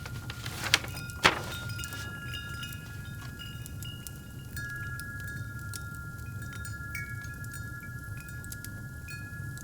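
Wind chimes ringing, several long overlapping tones, over the low steady rumble of a fireplace, with two sharp pops from the fire in the first second and a half.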